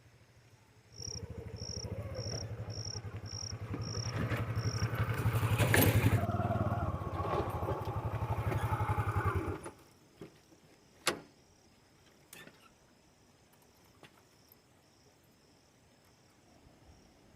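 Motorcycle engine running with a fast, even pulse, growing louder and then cut off suddenly after about ten seconds, followed by a few sharp clicks. Crickets chirp throughout.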